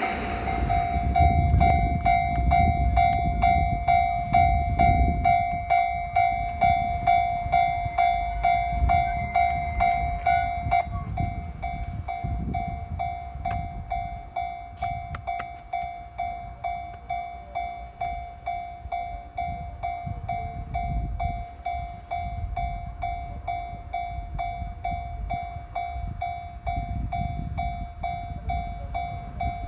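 JR 373 series electric multiple unit train running past with a low rumble, heaviest in the first half and easing later. Over it a high electronic ding repeats steadily, about one and a half times a second.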